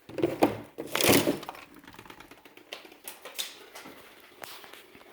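Food containers and packaging being handled and moved about, with a few sharp knocks and clatters in the first second or so, then lighter clicks and rustles.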